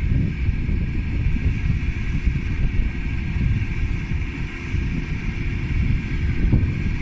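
Case CX80 tractor's diesel engine running steadily under load while pulling a four-furrow plough through heavy ground, a continuous low rumble.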